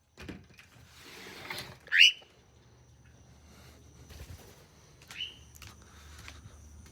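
A pet bird gives two short rising chirps, a loud one about two seconds in and a softer one about five seconds in, over faint rustling.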